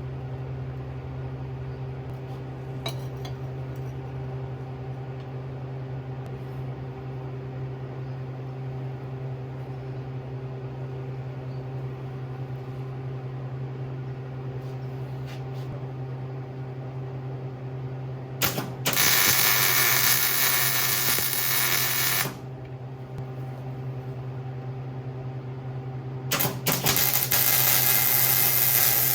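Welder tacking a steel hoop onto a truck frame: two stretches of crackling arc noise, the first about two-thirds of the way in lasting several seconds, the second starting near the end. A steady low electrical hum runs underneath throughout.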